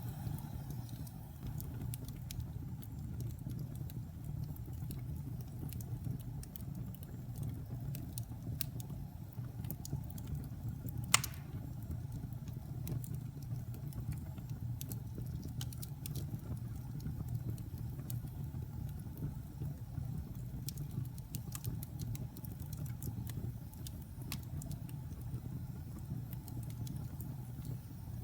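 Wood fire burning in a fireplace: a steady low rumble with scattered small crackles, and one loud pop about eleven seconds in.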